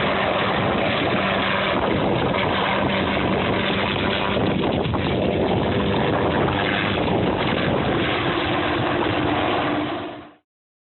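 Helicopter running steadily, its engine and rotor noise mixed with wind on the microphone; it fades out quickly near the end.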